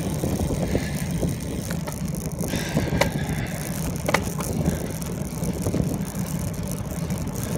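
Riding noise from a moving bicycle: a steady low rumble of wind and rolling, with two sharp clicks or rattles near the middle.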